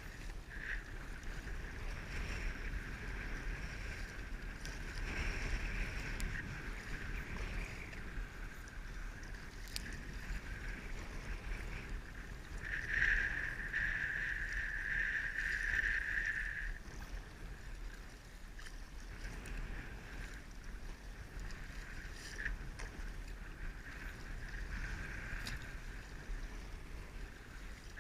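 Water swishing and splashing around a paddled kayak, swelling louder for a few seconds near the middle, over a steady low rumble of wind on the microphone.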